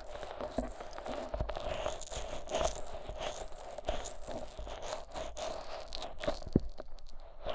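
Fingers rubbing thick, sticky Vaseline over the silicone ears of a 3Dio binaural microphone, making wet, crackling squelches with many irregular small clicks, one sharper click about six and a half seconds in.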